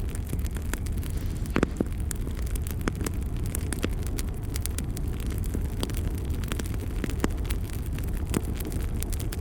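Fireplace fire burning with a steady low rumble of flames, crackling and popping irregularly, with a few louder pops.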